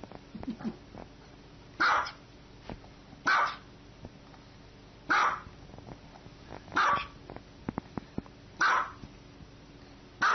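Small white dog barking: six single, sharp barks spaced about one and a half to two seconds apart.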